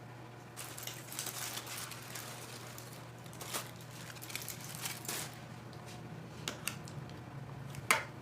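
Aluminium foil crinkling and rustling as it is peeled back off a baking pan of roasted vegetables, with a few sharper crackles later on. A steady low hum runs underneath.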